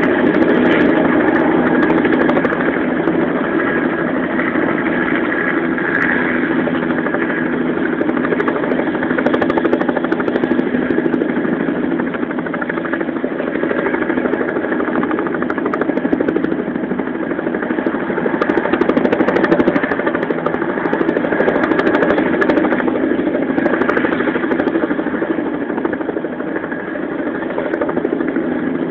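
Helicopter engine and rotor running steadily, a continuous mechanical hum with several steady tones and no change in pitch.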